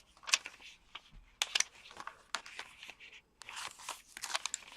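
Paper pages of a small handmade junk journal being turned and handled: a series of rustles and crisp page flicks, busiest near the end.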